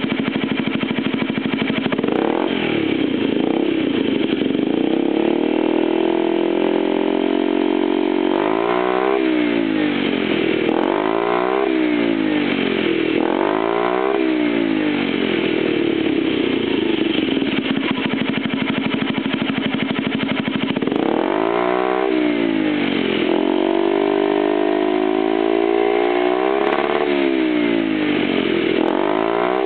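Honda Zoomer scooter's 50cc single-cylinder four-stroke engine breathing through a short aftermarket muffler, idling and being revved: the revs are raised and held for a few seconds, dropped back, then blipped sharply several times, held up again, and blipped twice more near the end.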